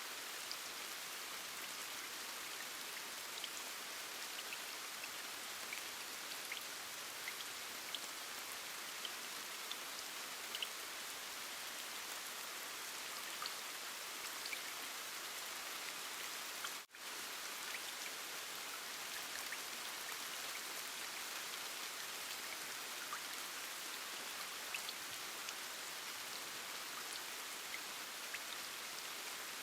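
Steady rain, an even hiss with scattered single drops ticking through it. About two-thirds of the way in, the sound dips out for an instant and comes straight back.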